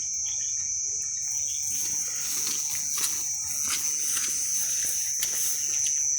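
Crickets chirring in one steady, high-pitched trill, with a faint hiss and a few light ticks.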